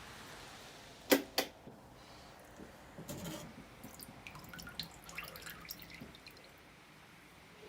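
Steady rain hiss, then two sharp clicks about a second in, after which the rain sound drops away. Scattered small clicks, taps and drips follow.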